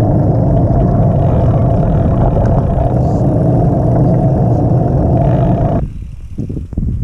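Steady rush of riding noise, wind on the microphone over a constant hum, that cuts off abruptly about six seconds in, followed by lighter gusts of wind.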